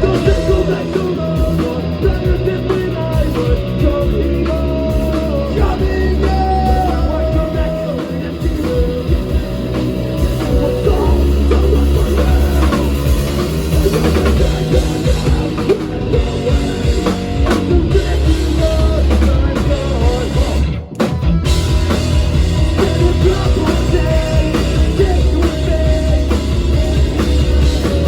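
Live rock band playing a song: drum kit, bass and electric guitars at full volume. The band stops dead for a split second about three quarters of the way through, then comes back in.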